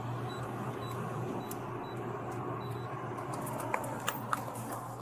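A steady low hum under background noise, with a few light clicks near the end.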